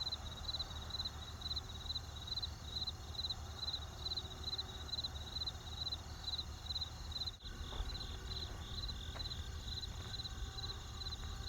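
Crickets chirping in an even rhythm of about three chirps a second, with a faint steady high tone just beneath the chirps and a low steady rumble underneath.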